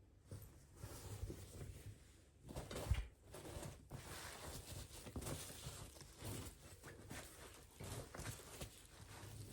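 Irregular household handling noise: rustling and light knocks, with one louder thump about three seconds in.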